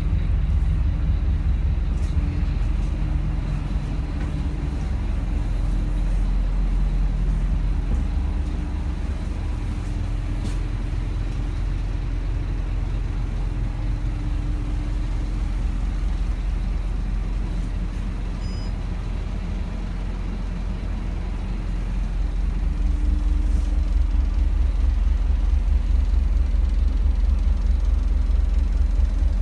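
2008 Scania K270 bus's five-cylinder diesel engine running at idle with a steady low drone. It grows louder and more throbbing about three quarters of the way in.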